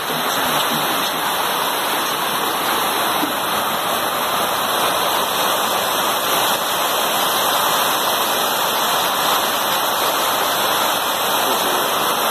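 Rain falling steadily on a corrugated roof, a dense unbroken hiss.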